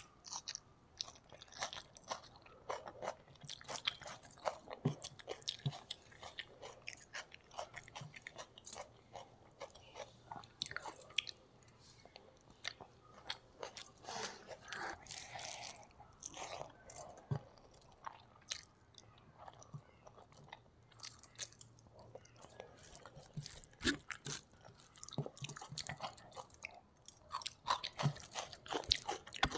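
Close-miked mouth sounds of a person chewing rice and fish curry eaten by hand, with crunching of raw onion: irregular wet clicks and crunches throughout. Soft sounds of fingers mixing rice into curry on a foil sheet come in between mouthfuls.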